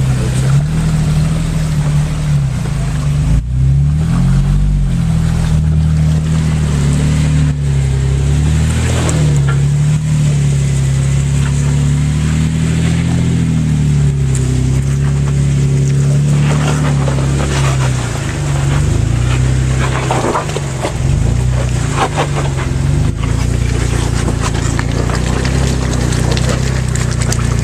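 Off-road 4x4's engine running close by at low revs, its pitch rising and falling a little now and then as the throttle is worked.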